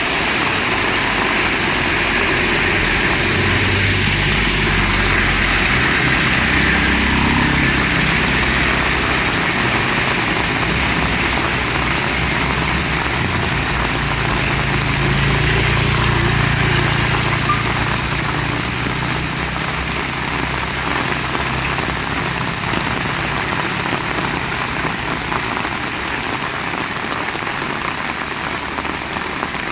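Heavy rain falling, with a steady low rumble underneath.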